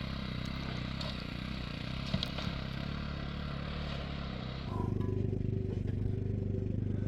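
A vehicle engine running steadily, with some scraping and clatter over it. About two-thirds of the way through, the hiss above the engine drops away and the engine's low note gets louder and steadier.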